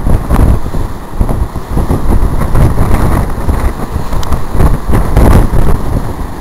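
Strong wind buffeting the microphone in loud, gusting rumbles.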